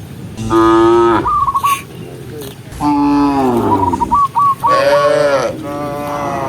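Cows mooing four times: a short falling moo, then a longer falling moo, then two arched moos close together. Between the moos come runs of short, quick chirping notes.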